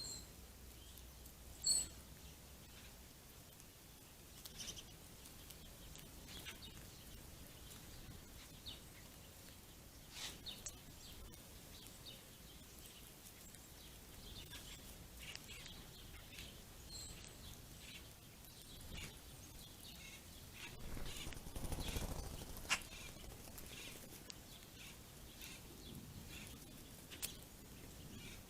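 Scattered short, high chirps from small birds, with one louder sharp chirp about two seconds in. About three quarters of the way through, a brief swell of rushing noise rises and falls under the chirps.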